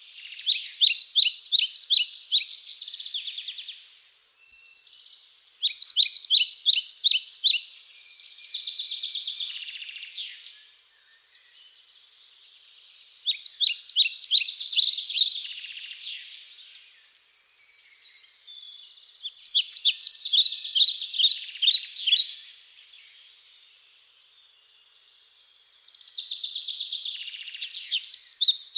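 A songbird singing in woodland, repeating a short song of rapid repeated notes that ends in a trill about every six seconds, five times in all. Fainter chirps from other birds fill the gaps between songs.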